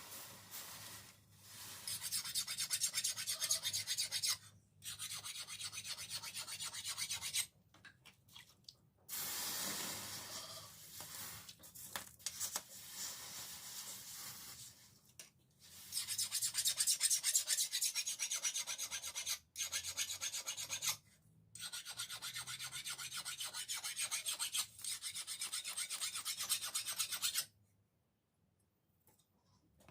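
Hand file rasping along the steel of a dao blade forged from a car leaf spring, in runs of rapid strokes a few seconds long with short pauses between them, stopping near the end.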